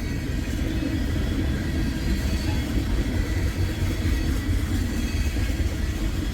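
Freight train rolling past close by: a steady low rumble of wheels on rail.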